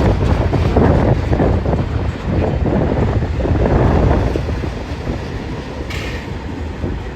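BNSF freight train cars rolling past, their wheels rumbling and clattering on the rails, the sound easing off somewhat after about four seconds. A short high-pitched screech comes about six seconds in.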